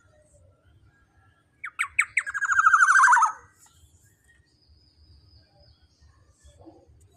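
Black-naped oriole (kepodang) giving one loud harsh call: a few quick notes, then a rapid rattling run that slides lower in pitch, lasting about a second and a half.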